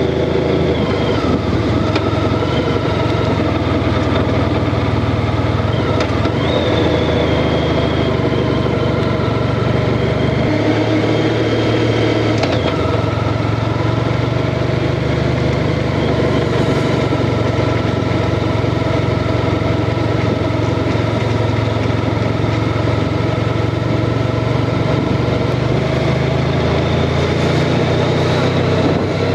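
Honda Crosstourer's V4 engine running steadily, its note shifting briefly about ten seconds in.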